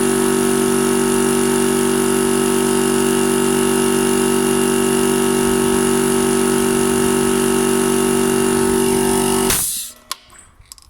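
Hawk Tools 100-litre 3 HP twin-cylinder V air compressor running steadily as it fills the tank, then cutting off suddenly near the end: the automatic cut-out tripping at full pressure, about 120 psi.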